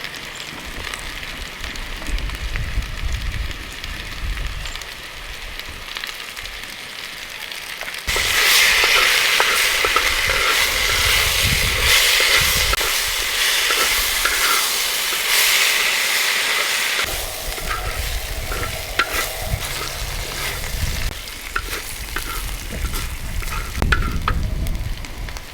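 Food sizzling and frying in hot oil while being stirred. The sizzle grows much louder about eight seconds in and eases off again about nine seconds later, with scattered light clicks.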